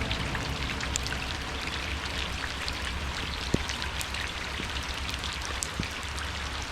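Heavy thunderstorm rain falling steadily, with many individual drops ticking on a nearby surface and one sharper tick about halfway through.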